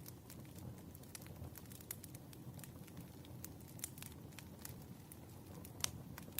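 Wood fire crackling: a soft low rumble of burning logs with many scattered small pops and snaps, one sharper pop near the end.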